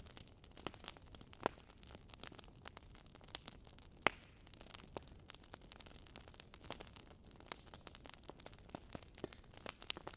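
Wood fire crackling: irregular sharp pops and snaps of burning firewood over a soft steady hiss, with one louder pop about four seconds in.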